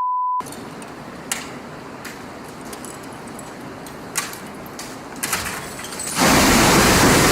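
A one-tone censor bleep ends just after the start. A few faint clicks follow, then about six seconds in comes a sudden loud, steady rush of water, like a wave breaking and surging.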